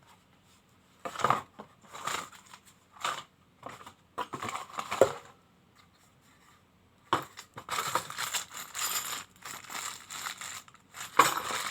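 Hands unpacking and handling a parcel's contents: irregular rustles of packaging and clicks and clinks of small hard parts, in short separate bursts with a longer busy stretch in the second half.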